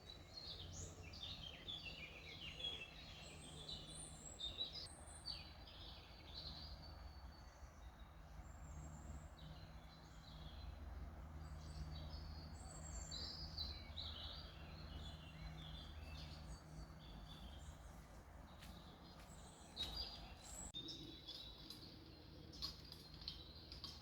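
Songbirds chirping and singing in quick, varied phrases, faint, over a low steady rumble. A few sharp clicks come near the end.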